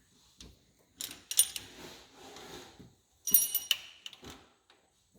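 Metal parts clanking and rattling as a component is worked out of a car engine during teardown: a cluster of clanks about a second in, then a louder clank with a brief metallic ring a little past three seconds.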